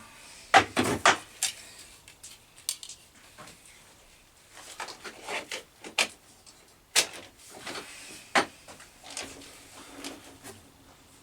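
Irregular knocks and clicks of tools and the workpiece being handled and set at a lathe, a few sharp ones at a time, loudest near the start and again past the middle.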